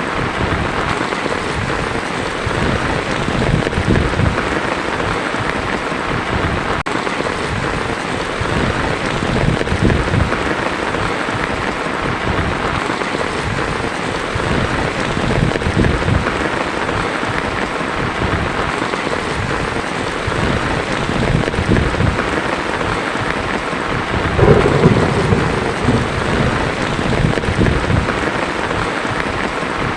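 Heavy rain drumming steadily on a tin roof, with low rolls of thunder rising and falling through it; the loudest roll comes about three-quarters of the way through.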